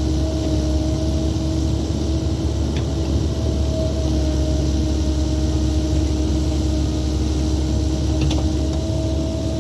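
Excavator's diesel engine running steadily under load while digging a trench, with a steady drone and a few faint clicks of the bucket and machine.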